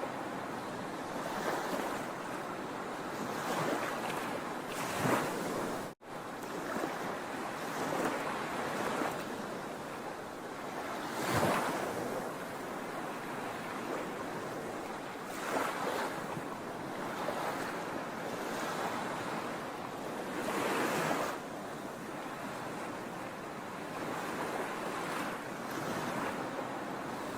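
Sea waves breaking and washing on a shore, a steady rush that swells with each wave every few seconds. There is a split-second gap in the sound about six seconds in.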